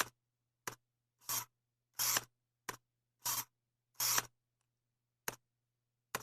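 A run of short, sharp scraping strokes, about nine in all, some brief and clicky and others longer, at uneven intervals, over a faint low hum.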